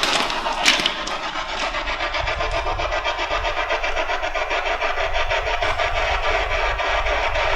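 Spirit box (ghost box) radio sweeping through stations, giving a rapid, evenly chopped rasp of static with no voices coming through.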